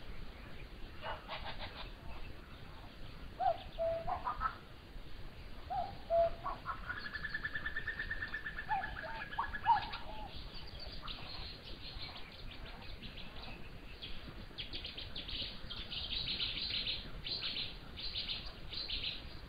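Wild birds calling: scattered short calls and a long, fast, even trill lasting about three seconds in the first half, then dense, rapid, high-pitched chirping through the second half.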